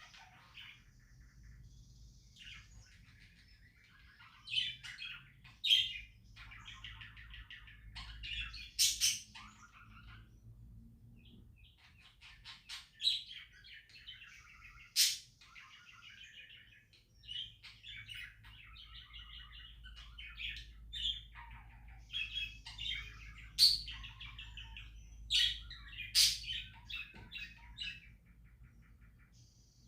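Pet budgerigars chirping and chattering in irregular bursts, with a few sharp clicks among the calls.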